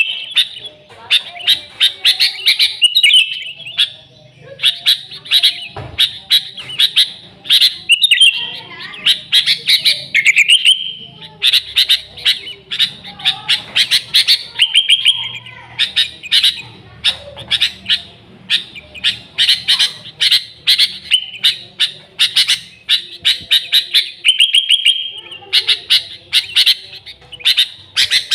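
Sooty-headed bulbul (kutilang) singing vigorously: fast runs of sharp chirping notes in phrases of a second or two, with a short whistled note now and then, on and on with only brief gaps.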